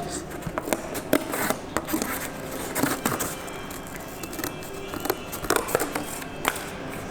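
Scissors snipping and scraping as a paper template is cut, in irregular short clicks, over background music.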